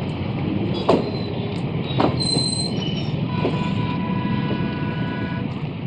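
Loaded freight train wagons rolling past on the rails with a steady rumble. There are two loud clanks about one and two seconds in, and a thin, high wheel squeal through the second half.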